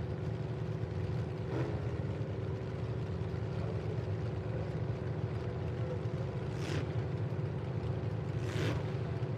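Engines of full-size demolition derby trucks idling steadily, a low constant rumble while the trucks sit stopped under a red flag.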